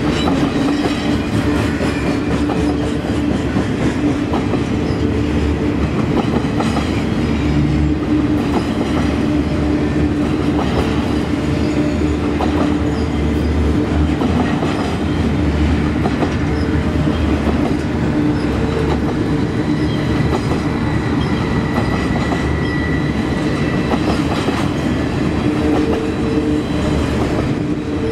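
Loaded double-stack container well cars of a freight train rolling past: a loud, steady rumble of steel wheels on rail with clickety-clack over the rail joints and a low steady tone underneath.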